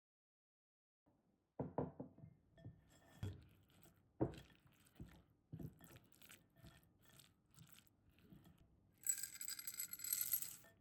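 Quiet kitchen handling: scattered soft knocks and clinks of dishes and utensils, then about two seconds of sharp, high-pitched rattling or rustling near the end.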